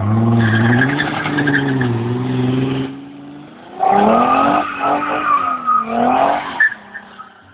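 Nissan 300ZX's V6 engine revving hard, rising and falling in pitch, while the car drifts and spins its tyres on wet asphalt, with tyre squeal over the engine. It comes in two long bursts with a lull about three seconds in.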